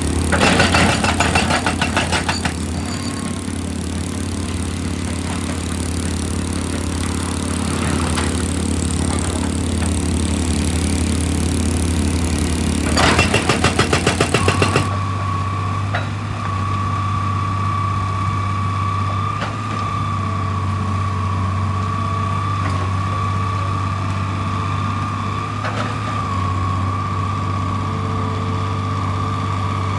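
Heavy diesel machinery running steadily, with two spells of rapid, regular pulsing, one near the start and one about halfway through. Halfway through, the sound changes abruptly to an engine hum with a steady high whine.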